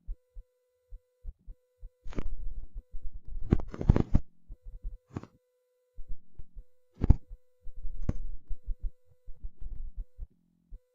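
A steady beep-like tone that keeps breaking off, with several loud sudden thumps, the heaviest about four seconds in and again about seven seconds in.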